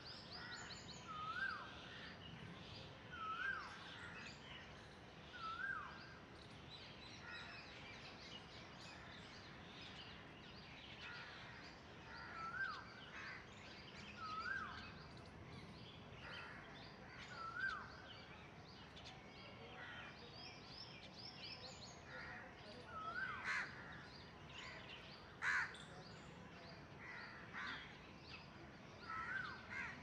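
Several birds calling: a short whistled call that rises and dips, repeated about every two seconds, over scattered higher chirps. A sharper, louder call stands out late on.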